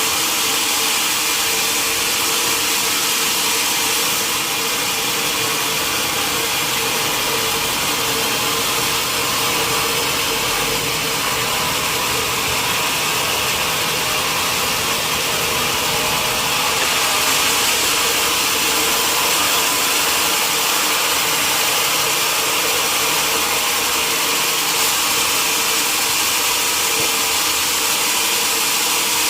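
Sawmill saw machine running steadily: a constant hum under an even high hiss, with no break or change.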